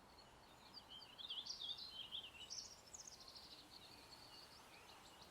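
Faint songbird chirping and twittering: a run of quick, wavering high chirps that fades out near the end, over a low background hiss.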